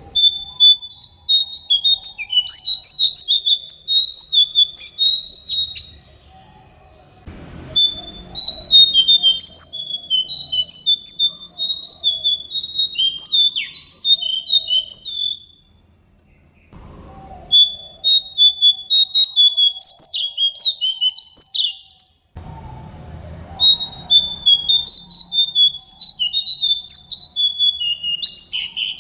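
A songbird kept as a pet in Indonesia and called jongkangan (cingcoang) sings. It gives four long, rapid phrases of varied high chirps and trills, with short pauses between them.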